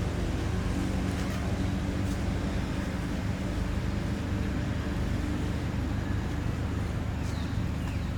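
Steady low engine hum running without change.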